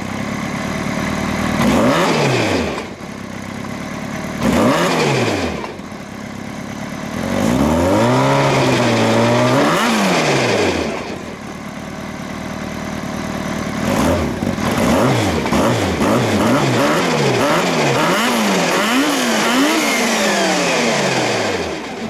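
Yamaha Apex snowmobile's four-stroke four-cylinder engine idling and being revved: two single throttle blips early on, a held rev that wavers for about three seconds, then a quick string of about eight short blips climbing higher before it drops back to idle.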